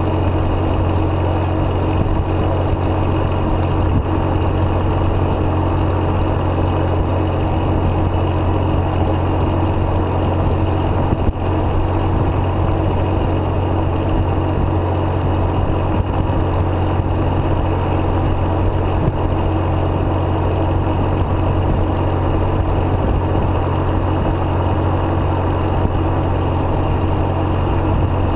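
2005 Jeep Grand Cherokee exhaust through a Thrush welded muffler, a steady deep drone at an unchanging engine speed. One brief click about eleven seconds in.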